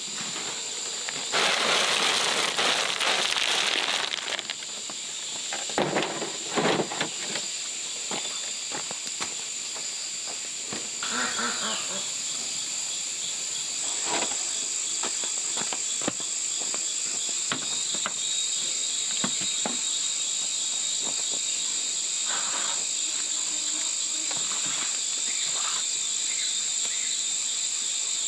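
Insects chirring steadily in a high, unbroken whine, with a louder rustling burst a couple of seconds in and scattered clicks and knocks.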